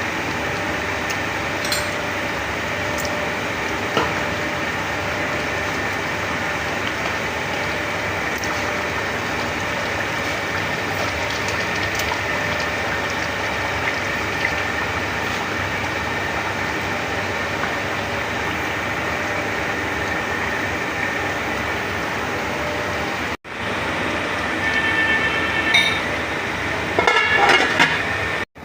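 A steady rushing kitchen noise, with a few metal clinks and scrapes of a utensil against a pot in the last few seconds.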